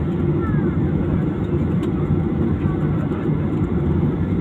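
Steady low rumble of a jet airliner's cabin with the engines running, just after landing.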